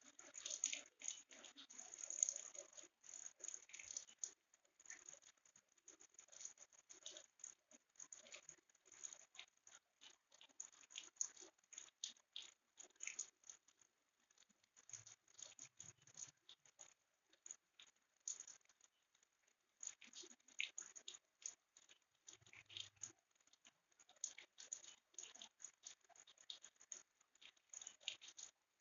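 Raindrops pattering faintly: an irregular, unbroken stream of small, light ticks.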